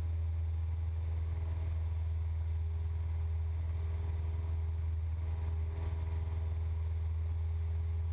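Cessna 172's piston engine and propeller droning steadily in the climb after takeoff, heard as an even low hum through the cockpit intercom.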